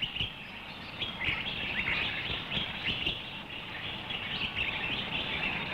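Birds chirping: many short, quick chirps over a steady background hiss.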